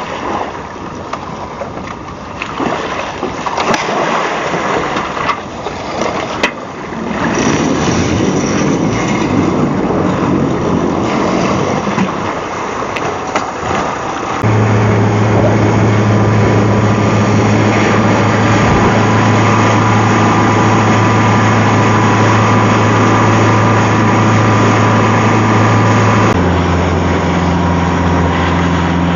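Motor boat engine: splashy water and wind noise at first, then from about halfway a loud, steady engine hum as the boat runs under power, its note stepping lower a few seconds before the end.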